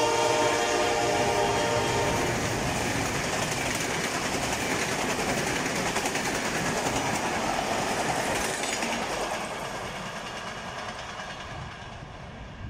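Passenger train of Russian-built coaches passing at full speed, wheels clattering over the rail joints, with the locomotive's horn trailing off about two seconds in. The rush of the coaches holds steady, then fades away near the end as the train recedes.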